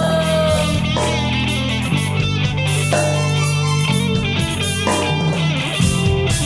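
Live funk rock band playing an instrumental passage, led by electric guitar over bass and drums, with no singing.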